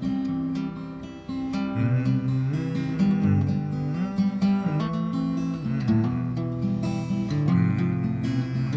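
Acoustic guitar strummed and picked through a chord progression, an instrumental passage between sung verses.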